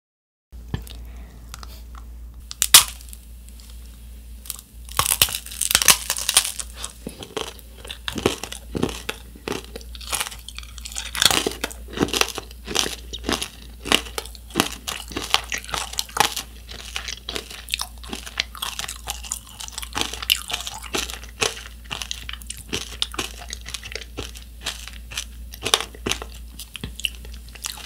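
Crunching and chewing of macaron tanghulu: a thin hard-candy sugar shell cracking between the teeth over the soft macaron, in a long irregular run of sharp crunches. It starts about half a second in, with the loudest crack near three seconds.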